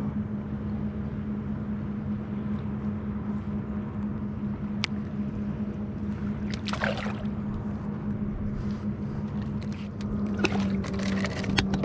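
Fishing kayak under way on the water: a steady low hum over a wash of water noise, with a quick run of clicks near the end.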